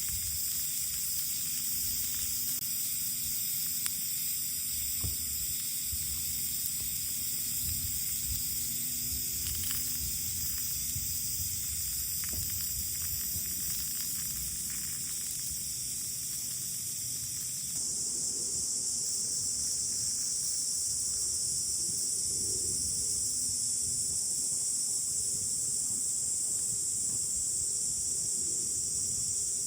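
Strong wind buffeting the microphone in irregular low rumbling gusts, under a steady high hiss. The sound changes abruptly about 18 seconds in.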